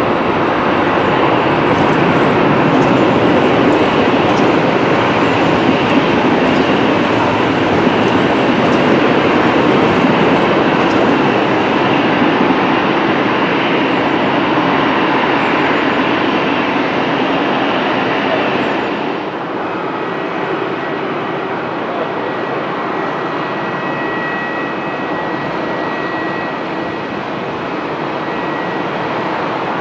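Electric multiple-unit passenger trains, a Thameslink Class 700 and a Southern Class 377, running over the main-line tracks and pointwork: a steady rush of wheel and rail noise that drops away about 19 seconds in. A quieter running sound with a faint high whine follows.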